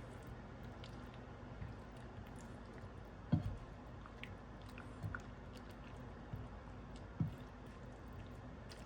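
A few soft, dull knocks and faint wet, squishy sounds of saucy tteokbokki being handled, over a steady low background hum.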